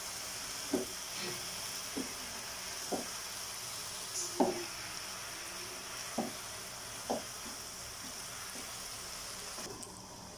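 Anchovies and onions frying with a steady sizzle in a non-stick pan while a spatula stirs them, clicking against the pan about once a second. The sizzle cuts off just before the end.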